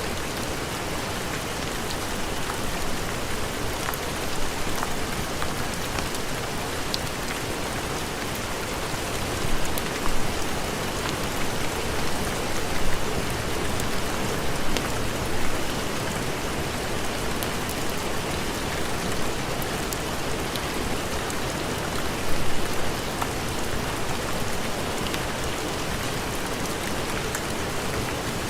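Steady heavy rain, with a few brief louder swells about a third of the way in and again about three quarters through, and faint sharp ticks scattered over it.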